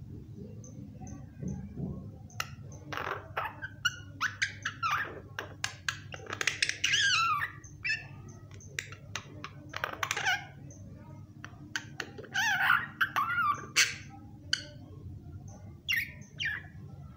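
Pet myna calling: a string of varied whistles, squawks and sharp clicks with quickly rising and falling notes, coming in several bouts, over a low steady hum.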